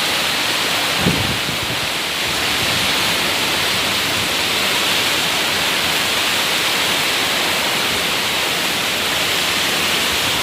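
Heavy rain pouring down in a storm, a steady loud hiss, with one brief thump about a second in.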